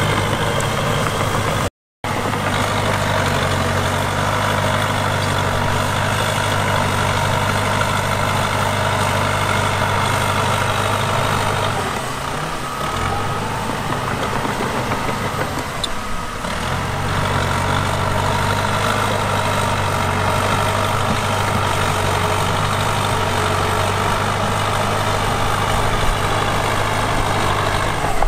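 Heavy diesel earthmoving machinery running steadily. The engine note weakens for several seconds about halfway through, then comes back strong. A momentary total dropout comes near the start.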